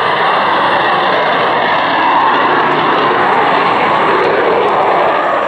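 Jet aircraft engines running loud and steady, a continuous roar with no distinct tones.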